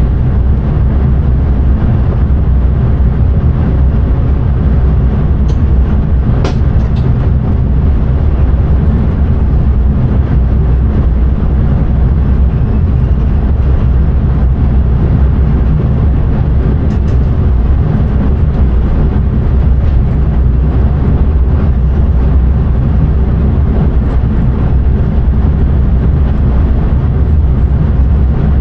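Intercity train running at speed, heard from inside the driver's cab: a steady, loud, low rumble of the train in motion on the rails, with a faint click about six seconds in.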